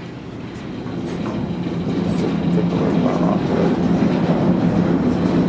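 Diesel engine of the lifting machine running, with a steady low drone that grows louder over the first two seconds and then holds as the machine is worked.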